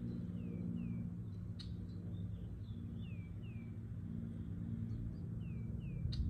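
Outdoor ambience: a small bird calling three times, each time two short falling chirps in quick succession, over a steady low hum. Two brief sharp ticks, about a second and a half in and near the end.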